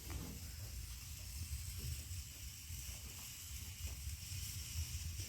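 Steady hiss of rain with a low rumble underneath and a few faint scattered taps.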